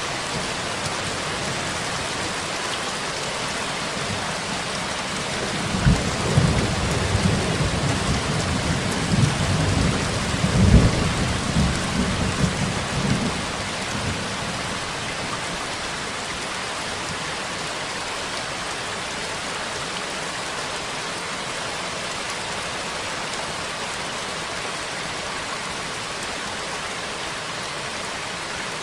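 Steady rain falling, with a roll of thunder rumbling in about six seconds in and fading out some eight seconds later.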